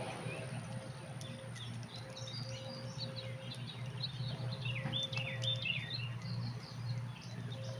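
Several birds chirping in short repeated phrases over a steady low background hum, with the chirping busiest about five seconds in.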